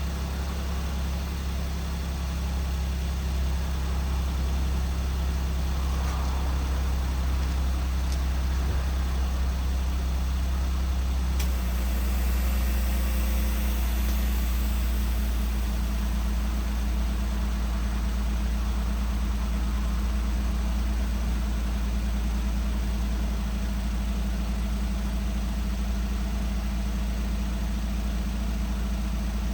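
Suzuki Palette SW's 660 cc K6A three-cylinder engine idling steadily. The idle note changes slightly about eleven seconds in. The engine has 190,000 km on it and the owner rates it in good condition.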